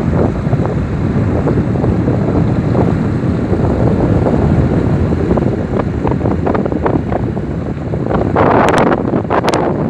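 Strong wind buffeting the microphone ahead of rain, a dense low rumble with gusts. Near the end a brighter, louder gust comes through with a few sharp clicks.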